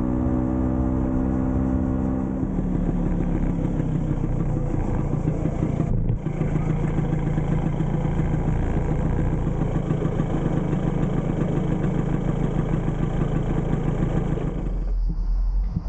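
Vespa PX scooter's two-stroke single-cylinder engine slowing down over the first couple of seconds, then running steadily at low revs, with a brief dip about six seconds in. The engine sound stops near the end.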